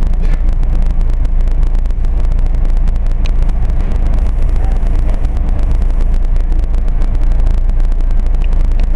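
SEPTA Regional Rail commuter train heard from inside the car as it rolls slowly along a station platform: a steady, loud low rumble with no break.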